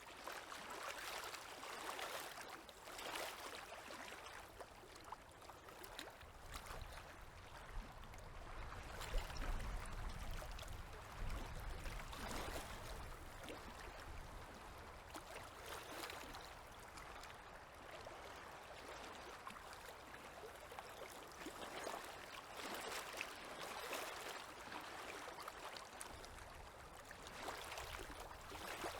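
Small river waves lapping at the shore: a soft, steady wash of water that swells every second or two. A low rumble comes in for a few seconds around a third of the way through.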